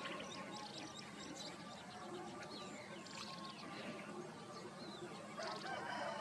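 Many birds calling at once: dense, overlapping short chirps and whistles, with a louder cluster of calls near the end.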